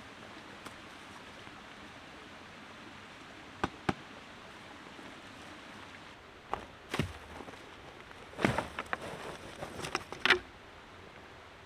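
A few sharp knocks and clacks of things being handled, over a steady outdoor background hiss: two quick clicks first, then a busier run of knocks and clatter a few seconds later.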